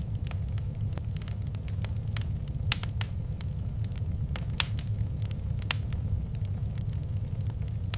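Wood fire crackling in a fireplace: a steady low rumble of flames with scattered sharp pops, the loudest three about 2.7, 4.6 and 5.7 seconds in.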